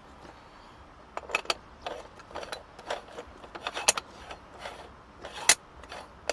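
Small hard objects being handled: a run of irregular clinks and knocks, the sharpest about four and five and a half seconds in.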